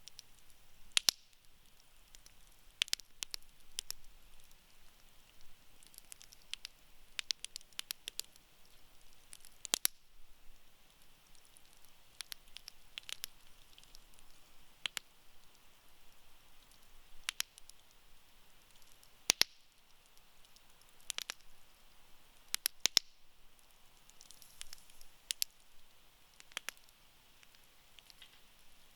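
Wood campfire crackling: irregular sharp pops and snaps over a faint hiss of burning, with a few much louder pops about a second in and again around the two-thirds mark.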